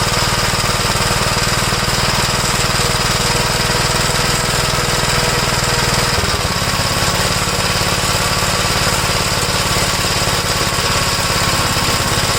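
1969 Gravely L-I walk-behind tractor's single-cylinder engine running steadily after its ignition points were fixed to cure a no-spark condition. Its speed changes about six seconds in.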